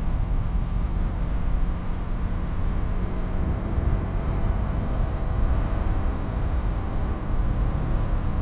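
Yamaha R15 V3's 155 cc single-cylinder engine running steadily as the bike is ridden at speed, mixed with a steady rush of wind on the mic.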